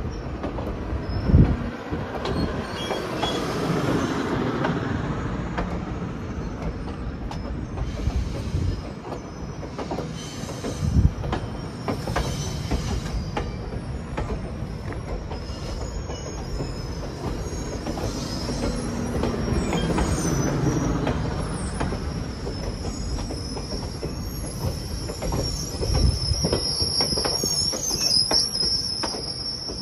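A train rolling past on steel rails, wheels clicking steadily over the track with a few heavier thumps. A high-pitched wheel squeal comes in during the last several seconds.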